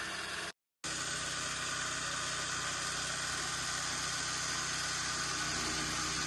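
Chaff cutter machine running steadily, cut off completely for about a third of a second shortly after the start.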